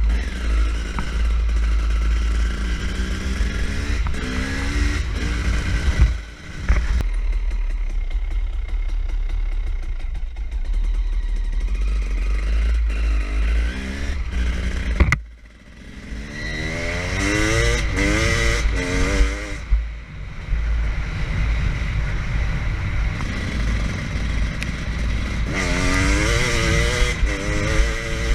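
KTM EXC 300's single-cylinder two-stroke engine revving hard while the dirt bike is ridden, its pitch climbing again and again, with two sharp drops off the throttle. Wind buffets the microphone throughout.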